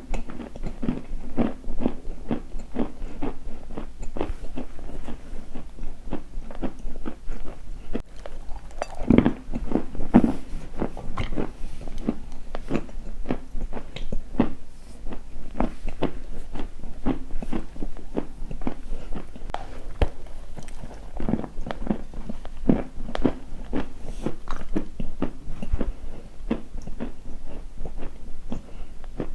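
Close-up crunching and chewing of a brittle, crunchy material: a dense, irregular run of crackly bites and crunches, loudest about nine to ten seconds in.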